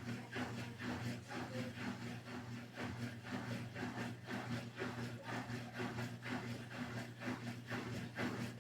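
The WEG electric motor of an Electrolux LES11 washing machine running, with a steady mains hum. Over it comes a rhythmic swishing, rubbing noise about twice a second.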